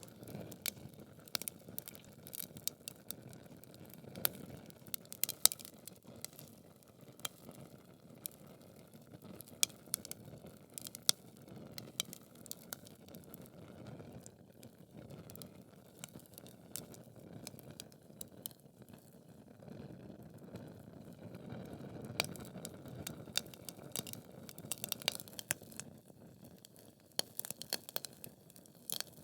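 Logs burning in a fireplace: irregular sharp crackles and pops over a low, steady rush of flame.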